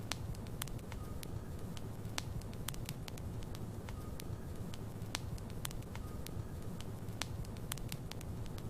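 Wood logs burning in a fireplace: a steady low rumble of flames with frequent sharp crackles and pops, and a faint short whistle every few seconds.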